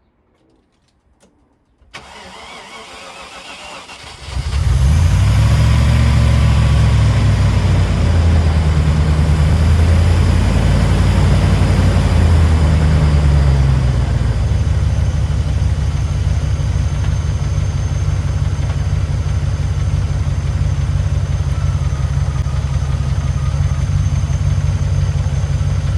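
Range Rover P38 engine cranking on the starter and catching about four seconds in, running at a raised, wavering speed, then settling to a steady idle. It is running on oil treated with Rislone to free a sticking valve or lifter.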